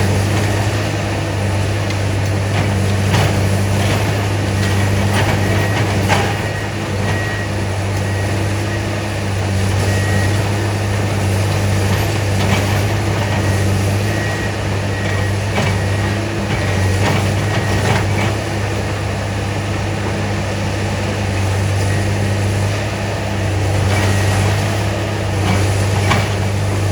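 Diesel engines of railroad track-maintenance machines running steadily, with scattered sharp metallic knocks and a faint high beep sounding on and off.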